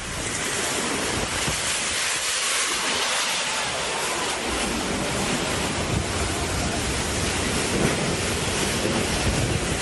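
Whirlwind storm with heavy rain: a steady, dense rush of strong wind and rain.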